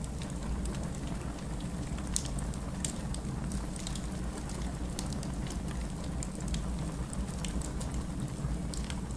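Wood fire burning in a fireplace: a steady low rumble with irregular sharp crackles and pops, one louder pop about two seconds in.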